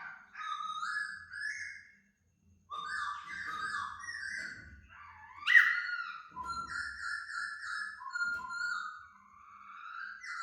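A laughingthrush singing: a run of clear whistled phrases and warbling trills, broken by a short pause about two seconds in. The loudest note is a sharp, downward-swooping whistle about five and a half seconds in.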